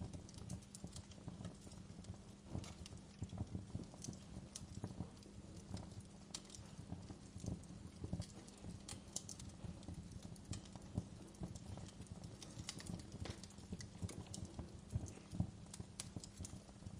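Wood fire crackling in a fireplace: irregular snaps and pops over a low steady rumble, with a few louder pops scattered through.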